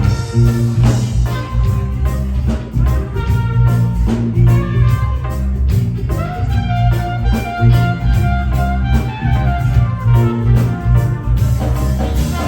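Live roots-reggae band playing: heavy bass and drum kit with guitar, keys and a horn section of trumpet, trombone and saxophone.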